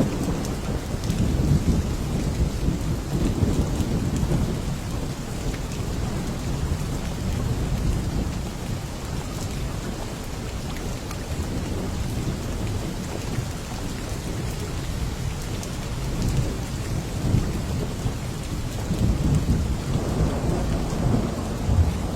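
Steady heavy rain with low rolling thunder. The rumbles swell near the start and again near the end.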